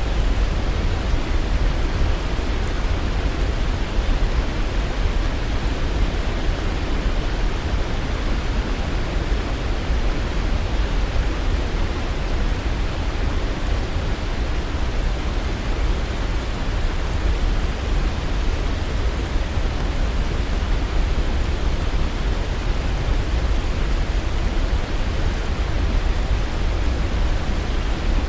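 Waterfall rushing: a steady, unchanging wash of falling water, deepest and heaviest in the low end.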